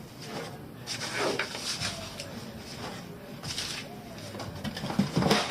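Packaging being handled and unpacked: irregular rustling and crinkling with a few sharp clicks and brief squeaks.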